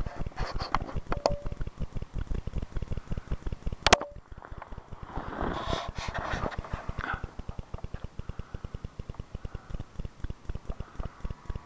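Boots crunching and thudding through deep powder snow in quick, steady footsteps, with a sharp click about four seconds in.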